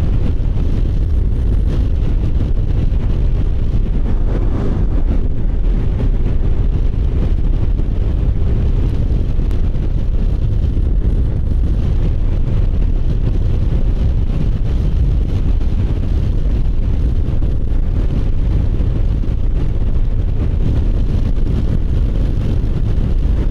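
Kymco Agility City 125 scooter riding along the road: a steady, even rush of wind over the microphone mixed with the engine running at a constant cruising speed.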